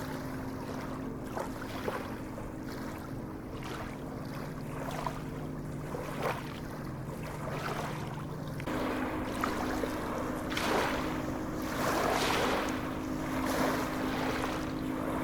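Sea waves washing and swelling several times, louder in the second half, over a steady low mechanical hum like a motor, which changes pitch about nine seconds in.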